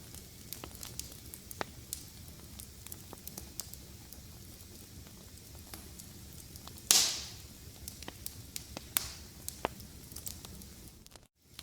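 Wood fire crackling, with scattered sharp pops over a low hiss and one loud pop about seven seconds in that trails off in a brief hiss. The sound cuts out for a moment near the end.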